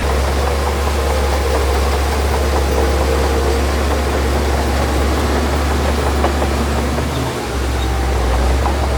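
Heavy earthmoving machine's diesel engine running steadily with a deep rumble, its note shifting briefly about seven seconds in.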